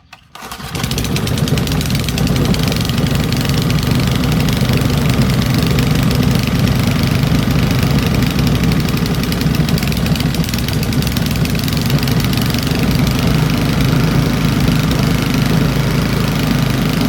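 Small old Briggs & Stratton single-cylinder engine catching about half a second in and then running steadily, its carburettor needle valve opened up a little further.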